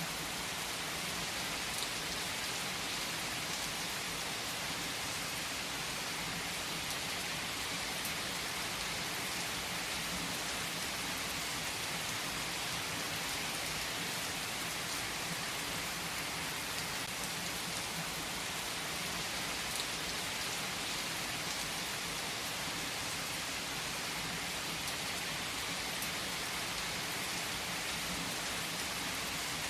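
Steady rain falling, an even hiss of many drops with a few sharper drip ticks.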